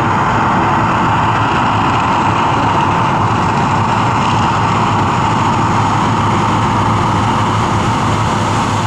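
Man-made volcano attraction's eruption show: a loud, steady rushing roar.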